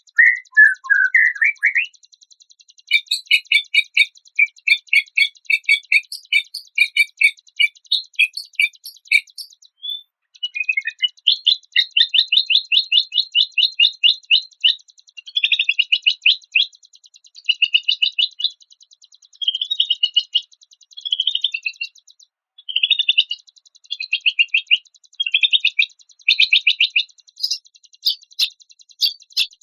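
Songbird song: rapid trills and chattering series of short, high chirping notes, in phrases of one to three seconds with brief pauses between them, over a faint steady high-pitched hiss.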